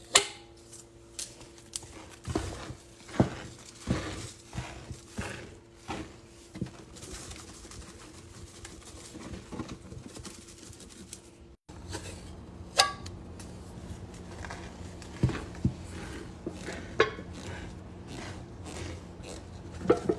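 Irregular clinks, knocks and clatter of hard household items being handled during cleaning, like dishes and cutlery, over a steady low hum. The sound cuts out for an instant a little past halfway.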